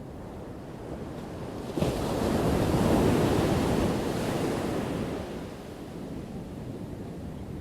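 Ocean waves crashing on the shore: a wave breaks sharply about two seconds in, its crash swells and then fades into a steady wash of surf.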